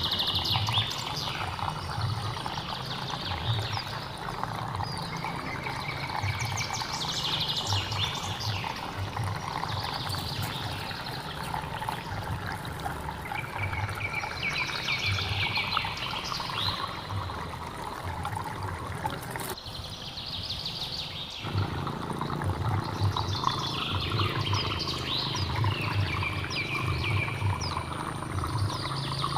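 Water running steadily with a trickling, pouring sound, while birds sing short chirping phrases every few seconds. The deeper part of the water sound drops out for about two seconds roughly two-thirds of the way through.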